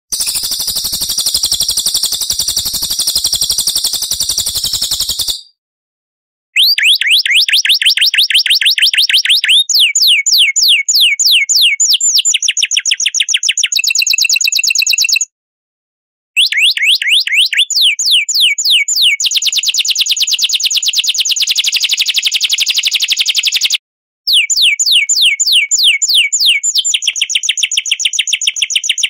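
Edited songbird 'masteran' recording: a dense, buzzy high-pitched chatter for about five seconds, then after a short silence, long runs of rapid rising whistled notes, several a second, cut off abruptly twice by brief silences.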